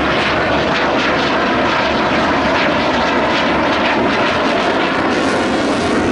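Eurofighter Typhoon's twin EJ200 turbofan engines, heard as loud, steady jet noise from the fighter in flight.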